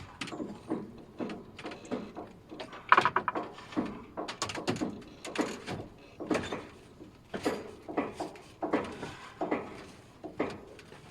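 A series of irregular knocks and scraping handling noises, roughly one or two a second, with one louder clatter about three seconds in.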